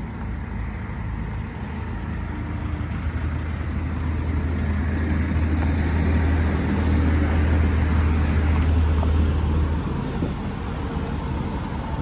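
New Holland Powerstar 75 tractor's diesel engine idling steadily, with a low even hum. It grows gradually louder over the first several seconds and eases off somewhat near the end.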